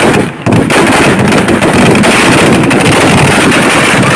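A long string of firecrackers (a 'sawa' belt) going off in a rapid, continuous crackle of loud bangs.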